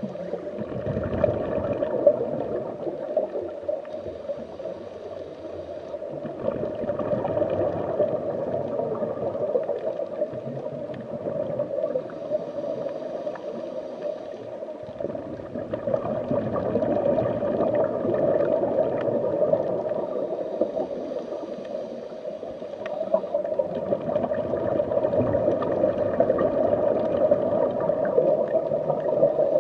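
Underwater bubbling and gurgling water that swells and fades every several seconds.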